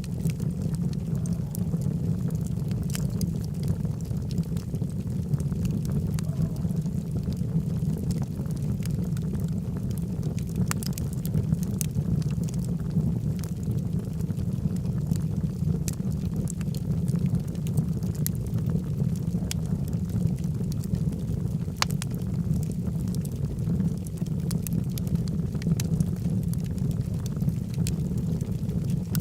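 Log fire burning in a fireplace: a steady low rumble with scattered sharp crackles and pops from the burning wood.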